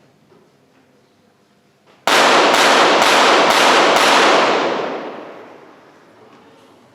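A five-shot rapid-fire series from .22 Short rapid fire pistols, several shooters firing together: five loud cracks about half a second apart, starting about two seconds in. Heavy echo rings on after the last shot and dies away over about two seconds.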